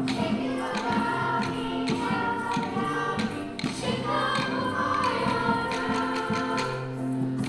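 A children's choir singing a song with instrumental accompaniment of held notes, with frequent light tapping through it.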